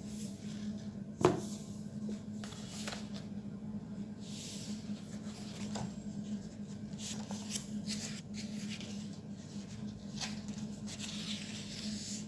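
Small clicks, rustles and knocks of objects being handled, with one sharper knock about a second in, over a steady low hum.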